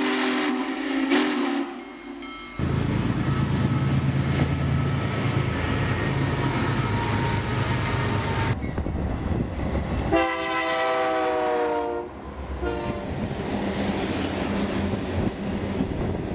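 Union Pacific Big Boy 4014 steam locomotive's whistle blowing for about two seconds, then BNSF diesel locomotives passing with a steady engine rumble. About ten seconds in, a chime train horn sounds for under two seconds, followed by steady rolling train noise.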